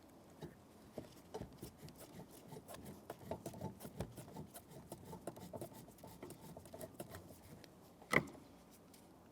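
Phillips screwdriver driving screws by hand into a plastic interior door handle: a run of small, irregular clicks and scrapes, with one louder sharp click near the end.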